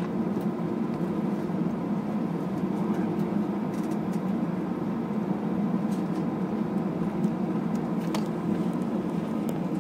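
Steady drone of an Airbus A321's engines heard inside the passenger cabin, with the aircraft readied for takeoff. There are a few faint clicks on top.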